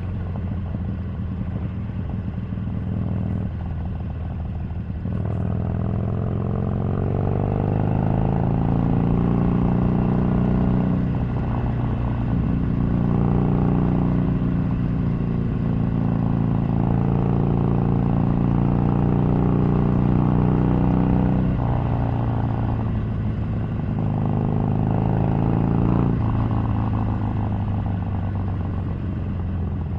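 Harley-Davidson 883's air-cooled V-twin engine running on the move, its pitch rising as it accelerates, with several drops where the throttle closes or it changes gear.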